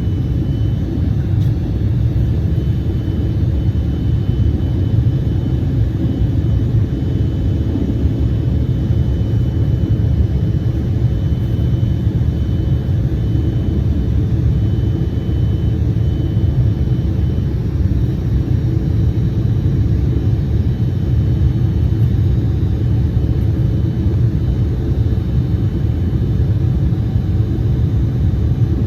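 Steady low rumble inside the cabin of an Embraer 175 jet airliner, with a faint high whine that fades away a little past halfway.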